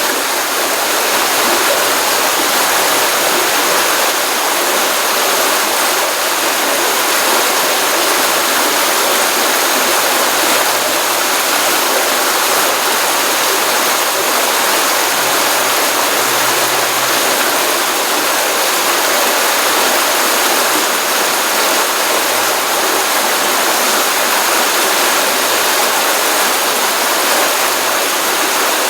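Stream water running steadily over rocks, a continuous rushing and splashing with no breaks.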